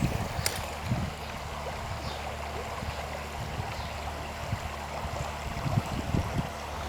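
Steady rush of flowing river water, with a low rumble beneath it.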